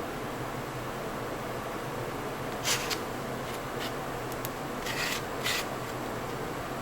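Steady background hum with several short scraping sounds in the middle, about five strokes over three seconds.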